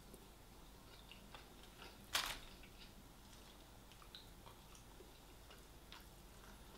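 A person quietly chewing fried chicken, with small wet clicks from the mouth and one louder crunch about two seconds in.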